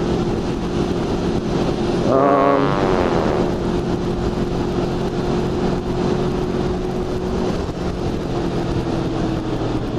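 Honda VFR's V4 engine running steadily on the move, mixed with rushing wind noise, with a short vocal sound about two seconds in.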